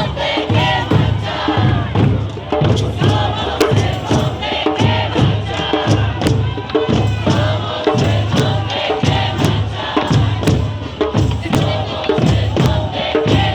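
A large protest crowd chanting together over a steady drum beat of about two beats a second.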